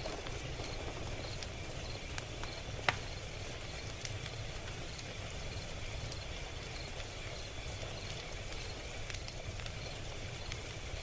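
Log fire crackling: a steady low rumble of burning logs with scattered sharp crackles and pops, one louder pop about three seconds in.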